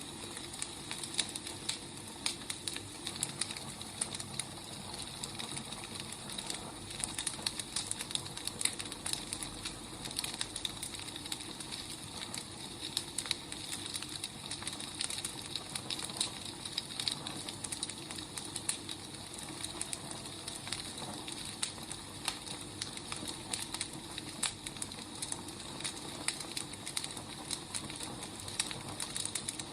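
Firewood burning, a steady hiss with frequent small, irregular crackles and pops.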